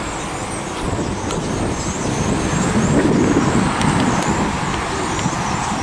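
Street traffic: road vehicles running past, the sound swelling to its loudest about three seconds in.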